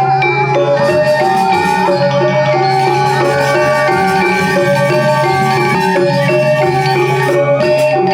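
Balinese gamelan ensemble playing for a dance: bronze metallophones ringing in fast repeating note patterns over a steady low tone, with clashing percussion about a second in and again near the end.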